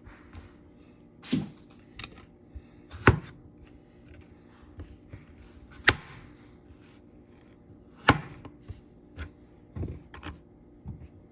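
Kitchen knife cutting raw potatoes, each cut ending in a sharp knock on the board, at irregular intervals of a second or two.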